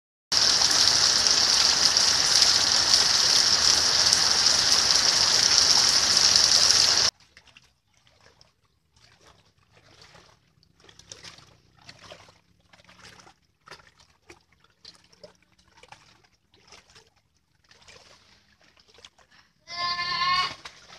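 Heavy tropical rain pouring onto trees and flooded ground, cutting off suddenly after about seven seconds. Then soft, repeated sloshing of feet wading through shallow floodwater, with a short high-pitched cry near the end.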